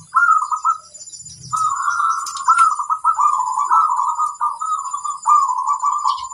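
Zebra doves (perkutut) cooing in quick, bubbling runs of notes. There is a short break about a second in, then a long unbroken stretch of song. A faint steady high whine runs underneath.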